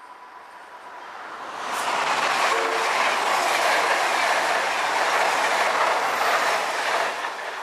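A train passing close by at speed: the rush of wheels on rail swells in about a second in, stays loud for several seconds, and eases off near the end.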